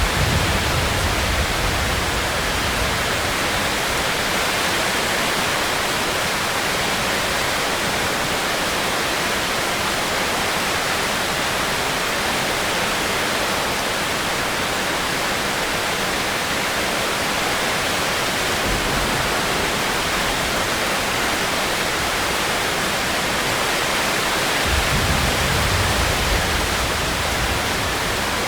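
Steady heavy rain, an even hiss without break, with a low rumble near the start and another near the end.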